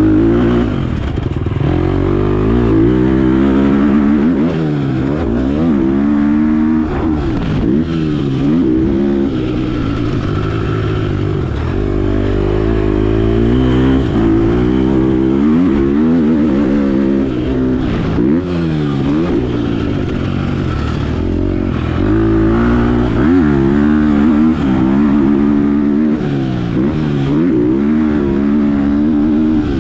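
Motocross bike engine revving hard and easing off over and over as it is ridden around a dirt track, its pitch climbing on the throttle and dropping back every second or two. A few sharp knocks come through over the engine.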